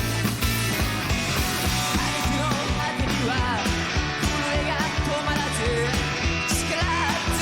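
Loud rock band playing with electric guitar, bass and drums at a driving, even beat, with a voice singing over it.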